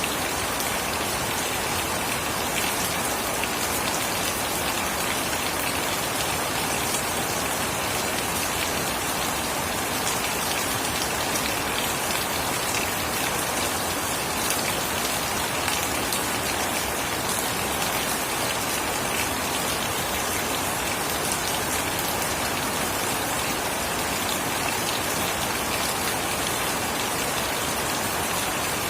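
Steady heavy rain falling and pattering on surfaces, an even hiss with many small drop ticks.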